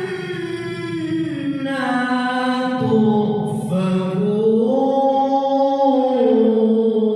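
Qur'an recitation (tilawah) by a single male reciter in a high, strong voice: one long melodic phrase of drawn-out held notes, the pitch gliding down, rising again and stepping down once more near the end.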